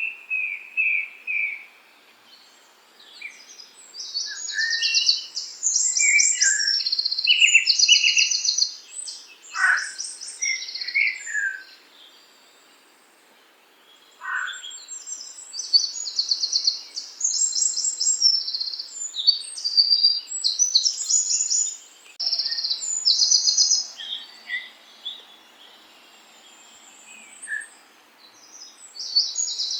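Songbirds singing and chirping in bursts of rapid high notes, with a few lower whistled notes and a couple of quick downward-sliding whistles. The song pauses about twelve seconds in and again for a few seconds near the end.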